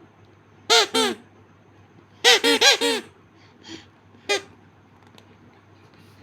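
Parrot squawking in short, harsh calls: a pair about a second in, a quick run of four a little later, then a faint call and a single one.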